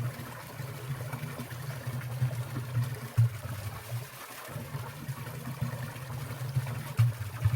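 Water in a winter mountain stream trickling and dripping steadily, with two sharper splashes, one about three seconds in and one near the end.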